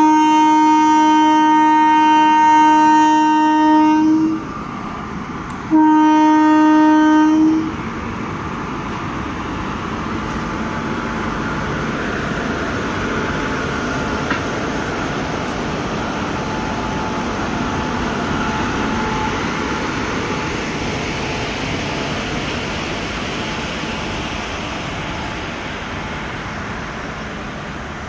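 Indian Railways passenger train passing close by: the locomotive's horn sounds two long blasts, about four seconds and then about two seconds. After them comes the steady rumble of the coaches running past, which slowly fades near the end.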